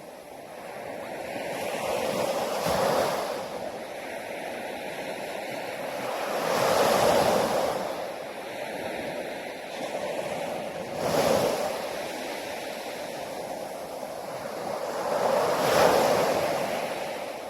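Sea waves breaking on a shore, in four surges about four seconds apart, each swelling up and then washing back.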